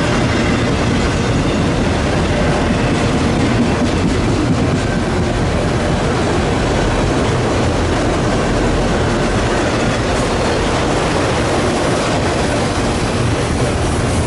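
A freight train rolling past, a loud, steady rumble of its cars' wheels on the rails.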